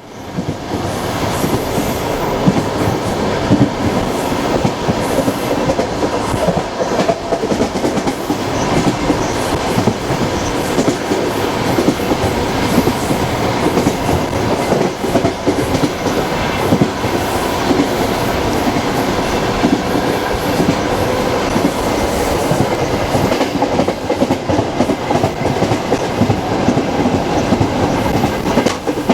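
Passenger train carriage running along the track, heard from inside the carriage at an open window: steady rolling rumble with the clatter of the wheels over the rail joints. It fades in at the very start.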